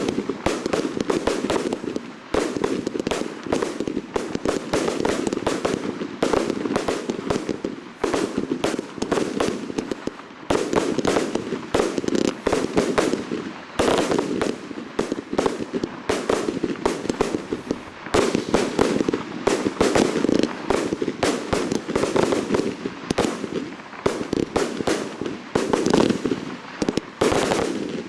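Fireworks display going off in a dense, continuous barrage of rapid bangs and crackling reports. It eases briefly a few times before picking up again.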